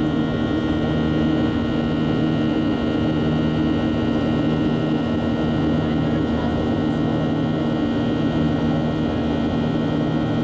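Boeing 737 jet engines and rushing air making a steady, even drone, with several steady humming tones and no change in level.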